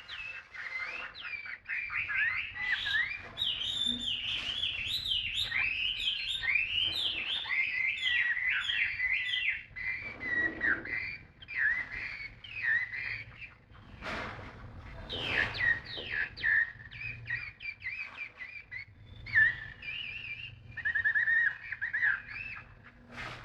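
Caged wild-caught songbird singing: rapid runs of whistled, warbling notes. Continuous for the first half, then broken into shorter phrases with brief pauses.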